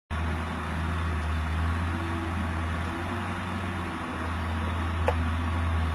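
Steady low rumble with an even hiss, and a single sharp click about five seconds in.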